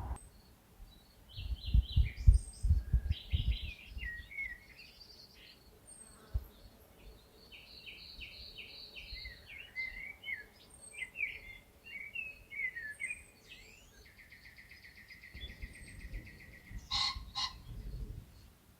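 A songbird singing a long run of varied, quick phrases, ending in a fast, even trill, over a faint repeated high note. Bursts of low rumble come early on and again near the end, with a few sharp clicks.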